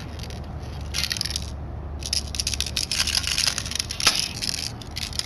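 Plastic airsoft gun being handled to clear a jam: a quick run of clicks, rattles and scrapes, with BBs stuck in the mechanism.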